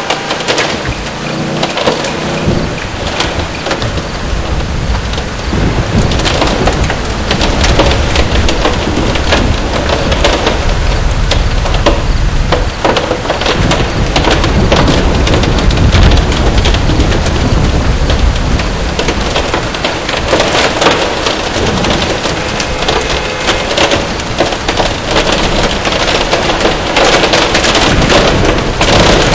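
Heavy rain and hail pelting a car, a dense clatter of impacts over a low rumble that grows heavier a few seconds in.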